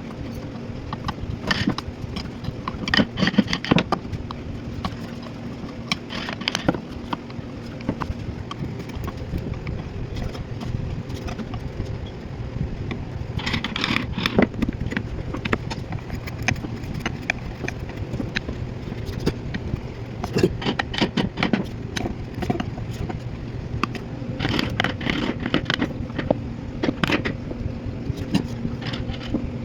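Hand carving of wood: carving tools knocking and clicking against the wood at irregular intervals, with short bursts of scraping, over a steady low hum.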